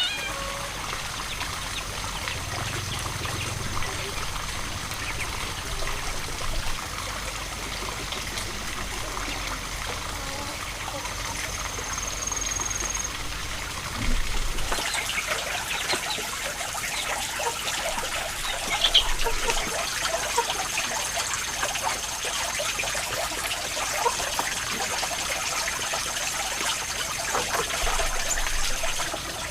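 Water trickling and splashing, steady at first and choppier from about halfway through.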